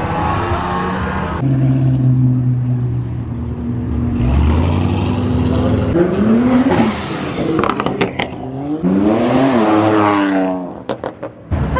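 Car engines accelerating hard past, heard in several short clips, with the engine pitch sweeping up under throttle twice, about six and nine seconds in. A few sharp cracks come near the end.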